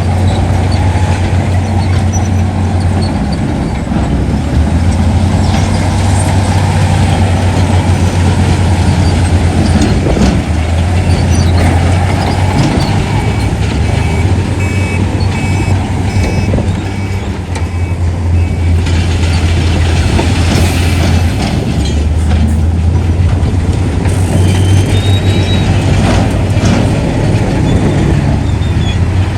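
Heavy diesel construction machinery running steadily with a deep engine drone. About midway a reversing alarm beeps for several seconds, and later come two bursts of hiss.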